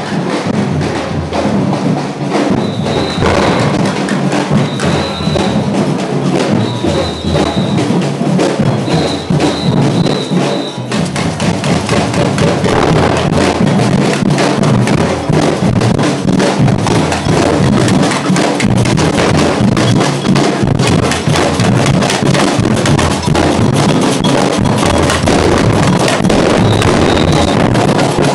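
A marching drum band playing a steady, loud drum rhythm. Short, high whistle blasts sound repeatedly over the drumming in the first third and again near the end.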